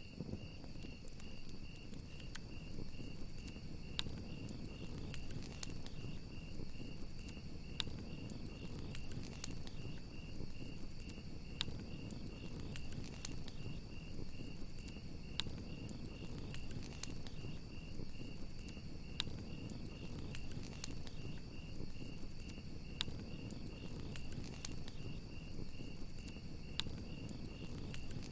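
Crickets chirping in a steady, fast pulsing trill, with a fainter, higher steady insect tone behind, over a crackling campfire: a low rumble of flame with sharp pops scattered irregularly throughout.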